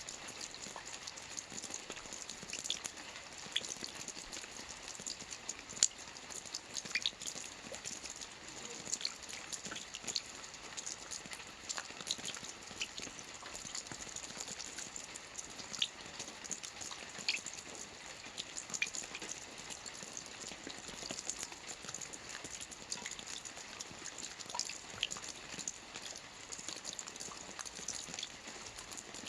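Steady rain falling on a lake: a constant high hiss of drops on the water, with many separate drops landing at irregular moments.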